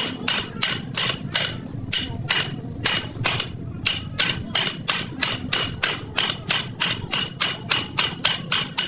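Steady hammer blows on metal, about three a second, each ringing briefly, typical of hammering on a drive shaft universal joint's yoke and bearing caps during a rebuild.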